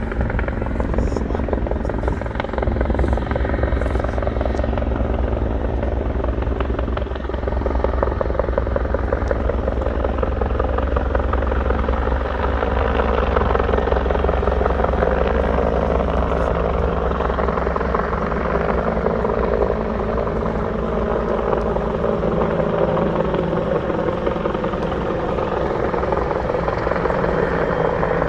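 Helicopter flying close by, its rotor and engine running steadily and loud throughout.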